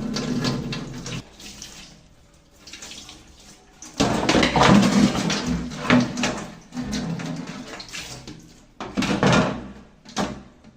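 Wet chewing and smacking of boiled pig's head meat close to the microphone, in bouts: louder from about four seconds in and again near the end.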